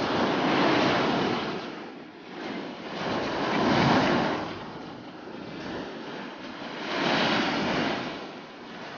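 Ocean surf breaking on the beach, the wash of noise swelling and fading three times, about every three seconds.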